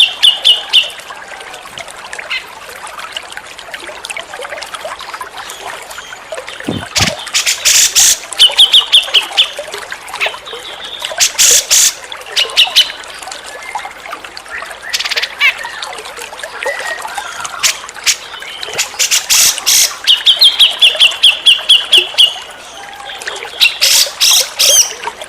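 Grey-cheeked bulbul (cucak jenggot) singing: loud, harsh, chattering phrases and quick runs of rapidly repeated high notes, coming several times with short gaps between them, over a steady trickle of running water.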